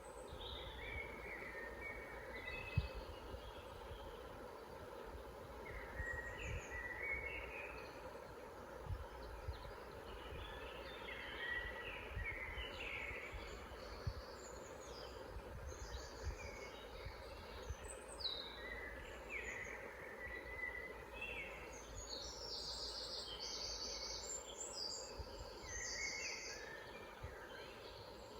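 Several forest songbirds singing, their short chirping and warbling phrases overlapping throughout, over a steady low background rumble. A brief low thump is heard about three seconds in.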